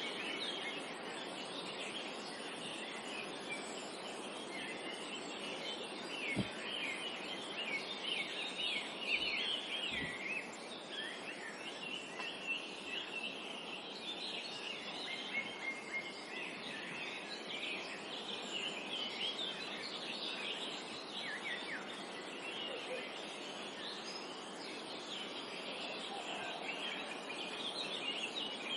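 Dense chorus of many songbirds chirping and trilling at once, short overlapping calls without a break, over a steady hiss of forest ambience.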